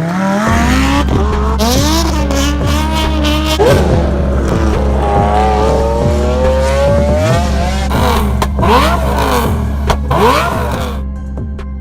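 High-performance car engines revving hard, with pitch climbing and dropping again and again, over a steady low drone. The revving thins out in the last second.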